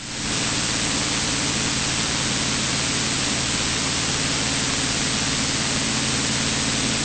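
Steady engine and propeller drone in a Cessna 182 cabin, a broad hiss over a low hum, fading in at the start and then holding level.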